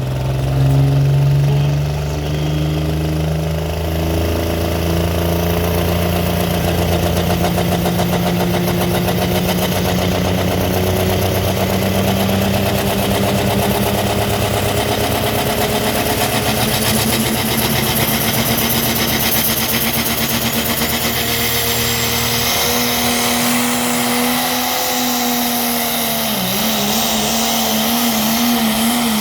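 Dodge Ram diesel pulling truck's engine running under load, its pitch climbing slowly and steadily, with a faint high whistle rising along with it. About three-quarters of the way through, the pitch dips suddenly and then wavers.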